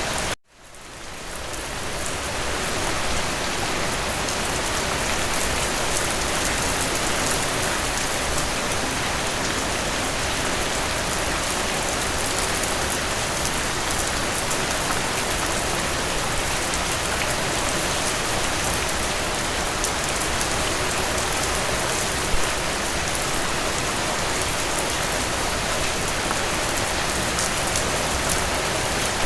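Steady rainfall, a dense even patter of rain on surfaces. It cuts out briefly just after the start and fades back in over about two seconds; one sharper tap stands out about three-quarters of the way through.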